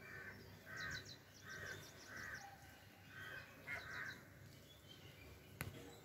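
Birds calling: one bird gives harsh, noisy calls about six times, and a smaller bird adds bursts of quick, high chirps between them. A single sharp click comes near the end.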